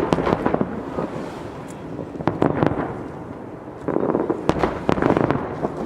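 Aerial fireworks bursting and crackling in rapid runs of pops, coming in three flurries.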